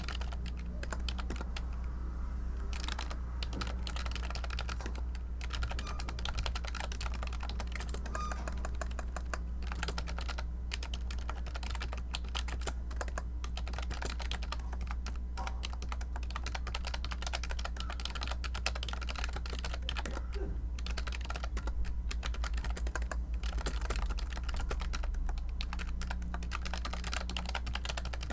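Typing on a computer keyboard: rapid, continuous key clicks with a brief pause about two seconds in, over a steady low hum.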